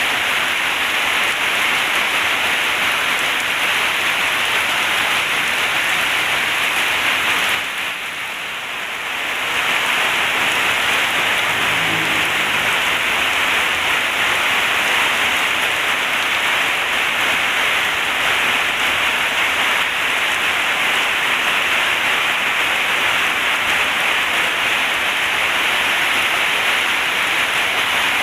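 Heavy rain pouring steadily, dipping briefly for a couple of seconds about eight seconds in.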